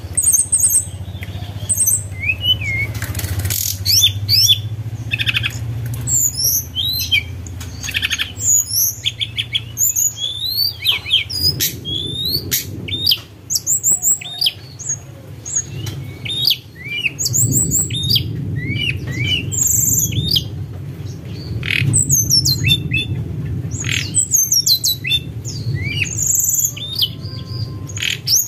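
Tledekan gunung songbird calling: a dense run of quick, high whistled chirps and short sweeping notes, over a steady low hum.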